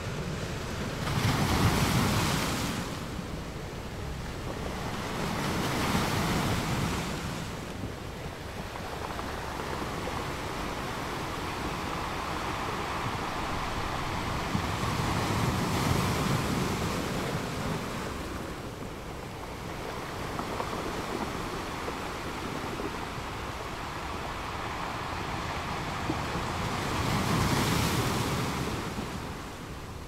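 Ocean waves breaking and churning into foam: a continuous wash of surf that swells into louder crashes, the biggest about two seconds in and another near the end.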